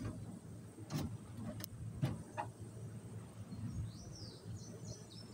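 A few sharp knocks and clicks in the first two seconds or so, then short, faint bird chirps near the end.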